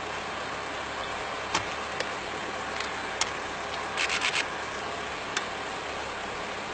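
Stopped vehicle's engine idling steadily, with a few sharp clicks and a quick run of clicks about four seconds in.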